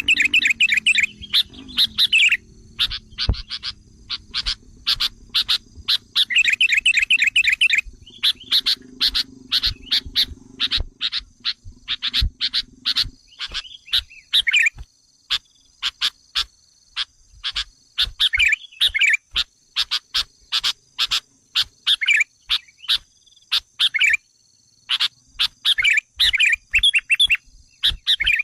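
Sooty-headed bulbul (kutilang) calls used as a lure: a long series of short, sharp chirps with several bursts of fast, trilled chattering. A low hum sits under the calls for the first half.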